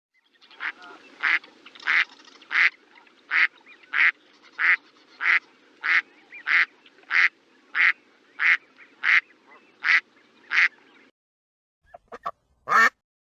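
Duck quacking in a steady series, about one and a half quacks a second, over a faint low hum. The series stops after about eleven seconds; near the end comes a quick cluster of short, sharp sounds, the last one loud.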